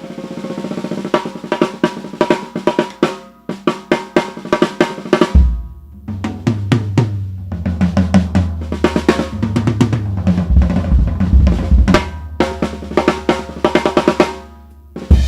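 DW Reserve waterfall bubinga drum kit played with sticks: a swelling snare roll into fast strokes, then from about five seconds in, deep bass-drum and tom hits ring out under continued rapid fills.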